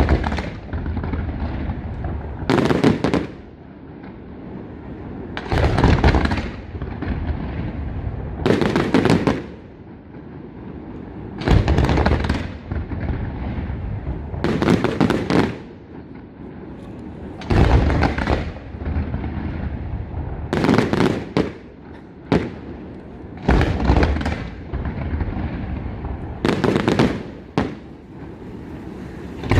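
Aerial fireworks shells bursting at a steady pace, one loud report about every three seconds, each followed by a rumbling echo that carries into the next.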